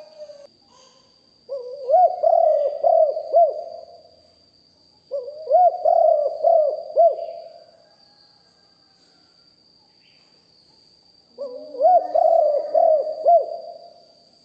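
Spotted dove cooing: three phrases of quick, low, repeated coos, a few seconds apart.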